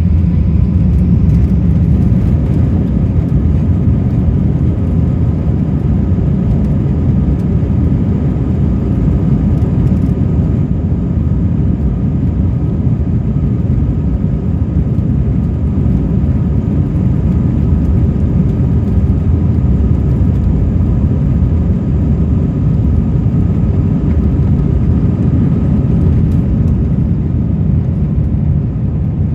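Airbus A319 jet engines and airflow heard from inside the cabin during take-off: a loud, steady low rumble with a faint whine above it.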